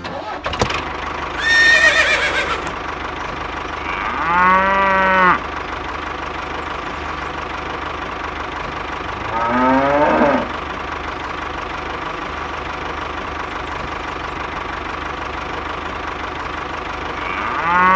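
Cows mooing four times, each a single drawn-out call, over a steady tractor engine idling. The first call, about two seconds in, is the highest and loudest.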